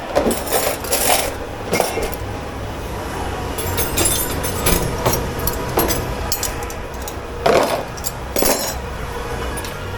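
Dishes and cutlery clinking and clattering as they are handled, in irregular knocks a second or so apart, over a steady low hum.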